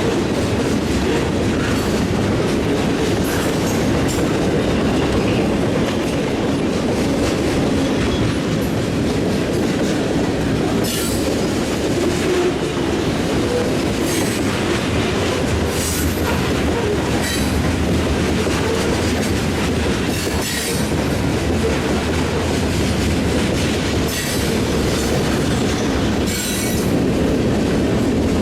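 A train rolls past with a steady heavy rumble of wheels on rail and a clickety-clack over the joints. Short, high wheel squeals cut in several times.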